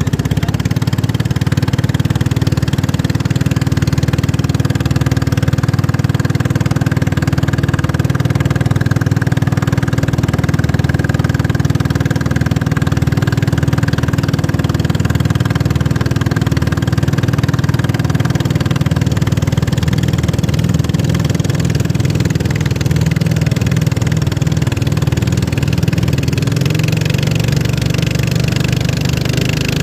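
Racing boat's engine running steadily and loud, with a slight shift in pitch about 26 seconds in.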